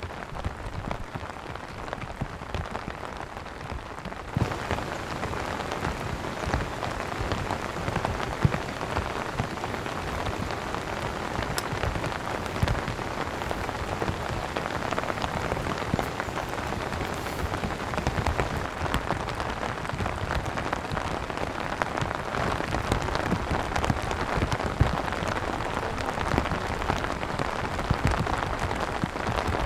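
Steady rain falling on a surface, with many individual drops ticking through it; the rain gets louder about four seconds in.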